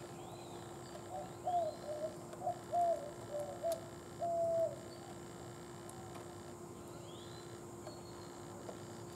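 A bird calling a series of low notes, about eight short ones and then a longer held one, over roughly three and a half seconds, with faint high chirps from a smaller bird.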